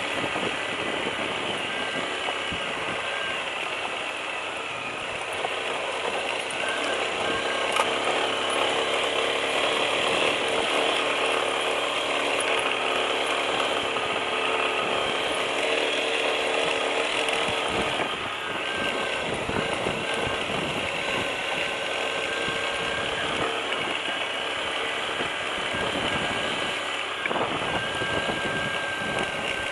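Lifan KPT200 motorcycle's single-cylinder four-stroke engine running, a steady, dense, rapid mechanical clatter with a held hum, its pitch shifting slightly about two-thirds of the way through.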